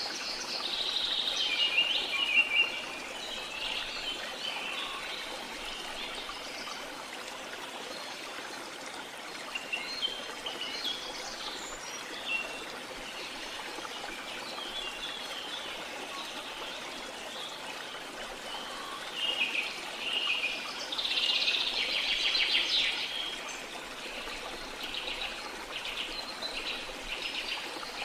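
Birds chirping and singing over the steady rush of a waterfall. The bird song is loudest in the first few seconds and again for a few seconds about two-thirds of the way through.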